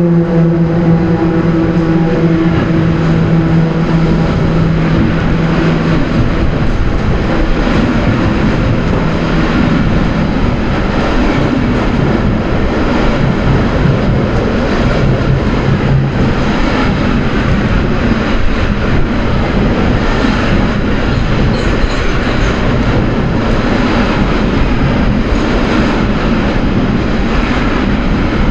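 A train passing close by: a loud, steady rumble and rattle of the carriages that lasts throughout. A low tone with overtones trails over from just before, drops slightly in pitch and fades out about six seconds in.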